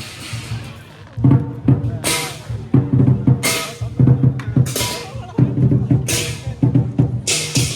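Lion dance percussion: a large Chinese drum starts beating about a second in, with cymbal crashes roughly once a second, then rapid cymbal clashing near the end.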